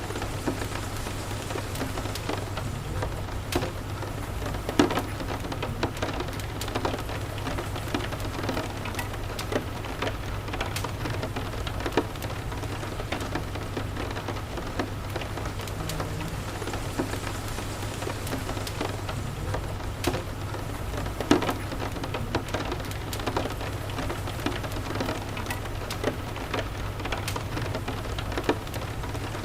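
Steady rain, with scattered sharp pops and crackles from a wood fire over a steady low rumble. The loudest pops come about five seconds in and again past twenty seconds.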